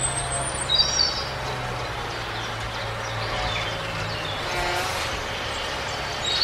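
Birds chirping, a short run of chirps about a second in, over a steady low hum.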